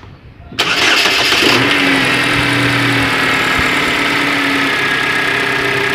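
Chevrolet Captiva Sport engine starting about half a second in, with a brief flare, then running steadily at idle.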